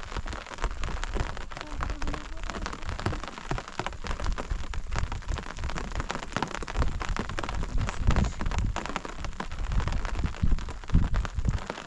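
Rain falling in a dense patter of drops, with heavier low thuds at about 8 and 11 seconds in.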